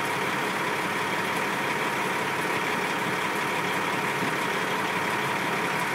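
A motor vehicle running steadily, with engine and road noise at an even level and a faint steady tone.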